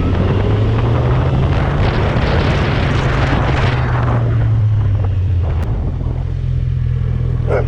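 Motorcycle engine running steadily at low revs, with a louder rush of noise for a couple of seconds in the middle. A dog starts barking at the very end.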